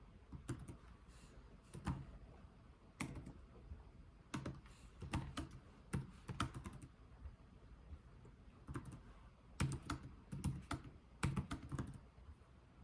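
Computer keyboard typed slowly, its keys clicking in short irregular runs with brief pauses between them.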